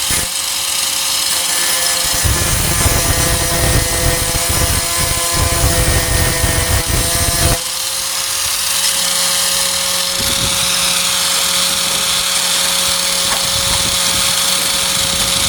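Electric angle grinder running with a steady whine, grinding on the tailgate's sheet steel with a rough, uneven noise for about the first seven seconds, then spinning on smoothly without load.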